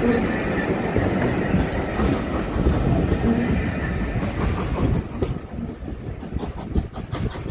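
Steam train hauled by Taff Vale Railway tank engine No 85 rolling past, its wheels clicking over the rail joints. It gets quieter about five seconds in as it moves away.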